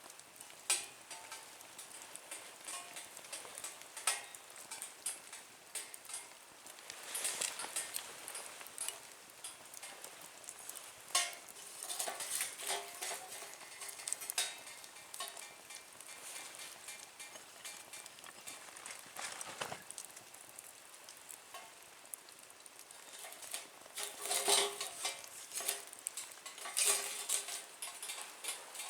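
Small wood fire burning in a Nature Stove, crackling with irregular sharp pops and a few short bursts of sizzling hiss.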